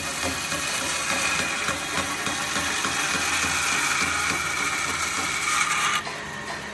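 A power tool running steadily on wood, with a hissing high-pitched noise that drops away abruptly about six seconds in.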